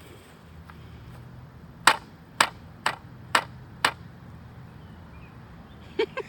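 A long pole striking the ground five times in quick succession, sharp knocks about half a second apart, as it is used to prod a snake along.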